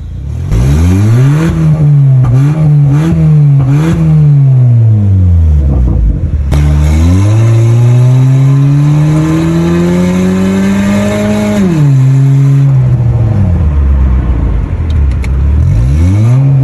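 Honda City's four-cylinder engine revved hard with its exhaust cutout switched open, so the exhaust runs loud without the silencer. It rises from idle to a few quick throttle blips, falls back, then climbs in one long rev held for several seconds before dropping to idle and rising again near the end.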